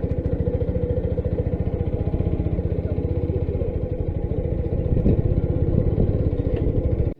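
Motorcycle engine running steadily with a rapid, even firing beat; it cuts off suddenly at the end.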